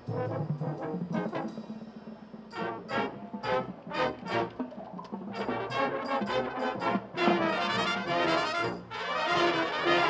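Marching band brass section playing: a run of short, accented chords, then fuller held chords from about halfway through.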